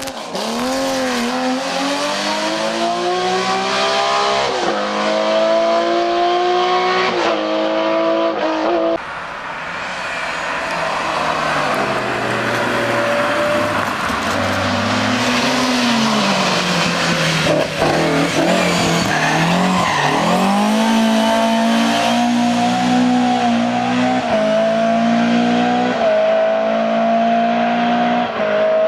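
Hill-climb race car engines at full throttle. The pitch climbs through each gear and drops back at every upshift. About a third of the way in the sound breaks off, and a second run follows that is noisier at first and then revs up through the gears again.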